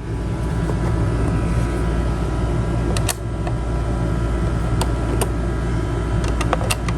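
A steady mechanical hum with a few sharp clicks and knocks: one about three seconds in, two around five seconds in, and a quick cluster near the end.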